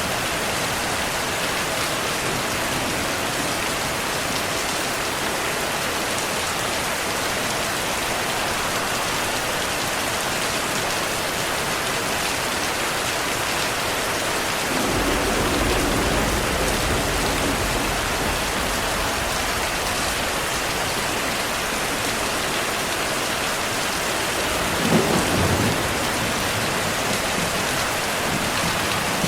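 Steady rain falling in an even hiss, with a low roll of thunder rumbling in about halfway through and lasting several seconds, then a shorter, sharper thunder rumble near the end.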